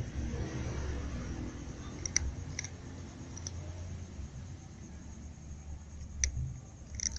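Cat eating: a handful of sharp clicks from its teeth and the food, spaced irregularly, over a low steady rumble.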